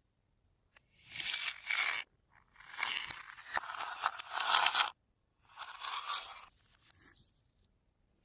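Slime being squished and stretched by hand, crackling and tearing in three bursts a few seconds long.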